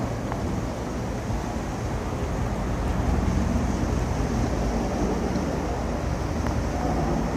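Boeing CH-47 Chinook helicopter rotors and engines, a steady low rumble, mixed with wind on the microphone.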